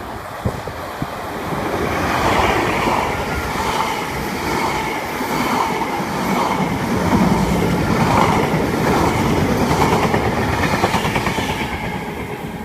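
A train passing close by at speed, its wheels clattering over the rail joints in a regular rhythm of about one beat a second.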